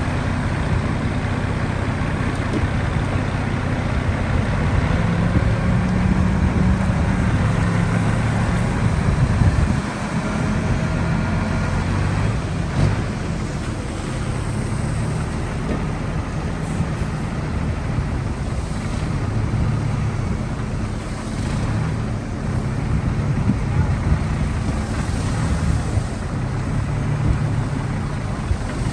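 Heavy diesel engine of construction machinery running under changing load, a continuous low drone that rises and falls in pitch, with a brief dip about ten seconds in.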